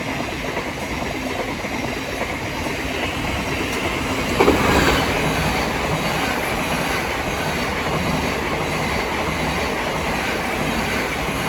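Thameslink Class 700 electric multiple unit passing through the station, a steady rush of wheels on the rails. There is a brief louder burst about four and a half seconds in.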